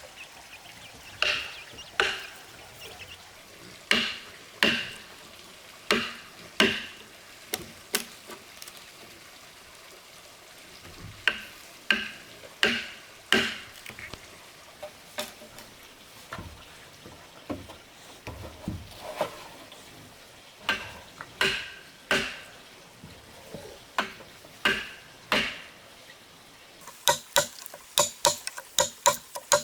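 A hand tool striking wood in slow, uneven runs of blows about a second apart, each strike sharp with a brief ringing note, with pauses between the runs. Near the end the strikes turn into a quicker run of lighter taps.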